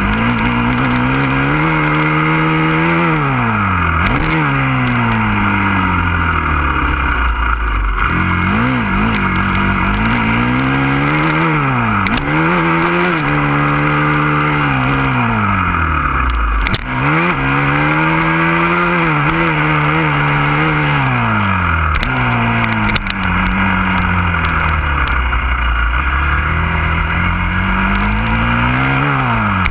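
Husqvarna FC 350 four-stroke single-cylinder motocross engine being ridden hard. Its pitch climbs and drops every few seconds as the throttle opens and closes through the gears, over a steady hiss.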